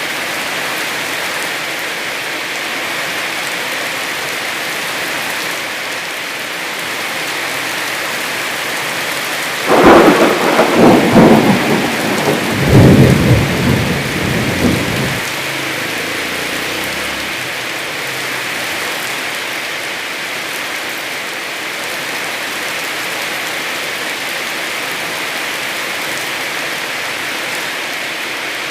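Heavy rain falling steadily. About ten seconds in, a loud thunderclap cracks several times and rumbles for about five seconds before fading back under the rain.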